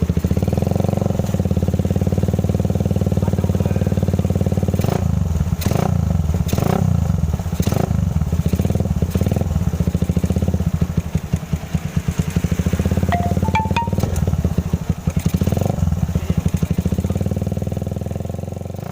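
Suzuki Satria FU's single-cylinder four-stroke engine running through a Lone Rider trioval 30 cm aftermarket racing exhaust, a loud pulsing exhaust note. Several short sharp blips come in the first half, and the sound dies down near the end.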